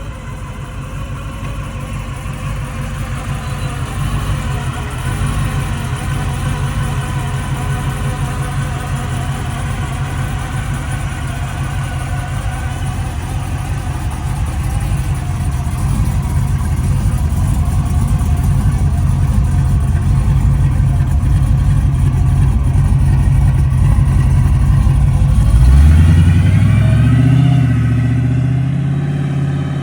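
1978 Chevrolet Malibu's engine running steadily with a low rumble that grows louder. About 26 seconds in, the revs rise and then hold.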